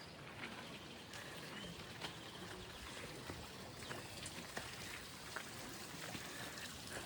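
Faint trickling water with scattered small drips and ticks.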